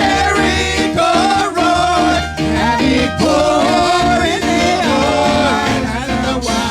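Upbeat live gospel praise music from a church band, with a steady beat and a gliding lead melody line.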